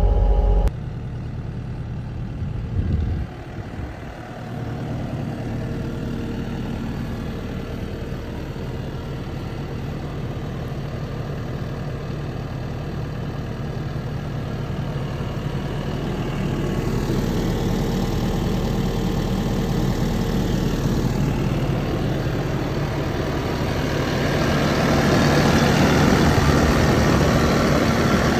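Kubota SVL-95 skid steer's V3800 four-cylinder diesel engine running steadily, gradually growing louder over the last ten seconds or so. A louder stretch in the first second cuts off abruptly.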